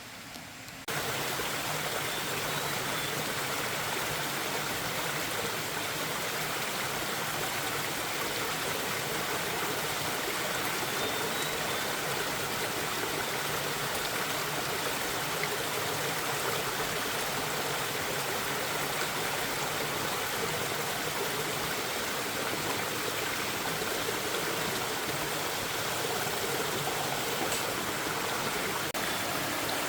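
Running water rushing steadily, starting abruptly about a second in.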